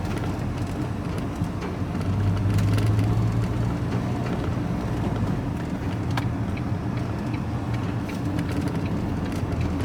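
Van engine and road noise heard from inside the cab while driving: a steady low drone that grows a little louder for a couple of seconds about two seconds in.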